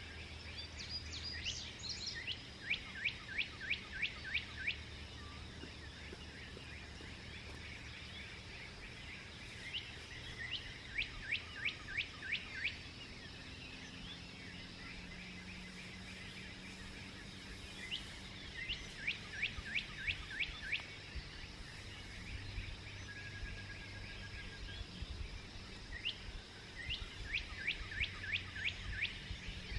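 A songbird sings the same short song four times, about eight seconds apart: a few higher introductory notes, then a run of about eight quick, evenly spaced down-slurred notes. Steady faint background noise runs underneath.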